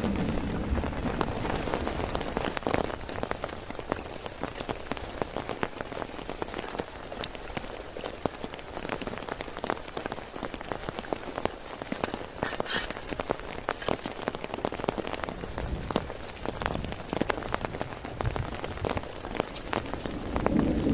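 Heavy rain falling, a dense, steady patter of individual drops striking close to the microphone.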